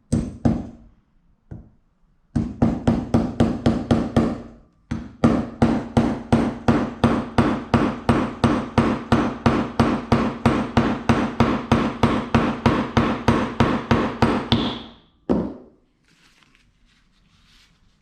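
Hammer striking metal in fast, even blows, about four to five a second, with a ringing tone carrying between strikes. A first run of blows, a short pause, then a longer run that ends with one last blow.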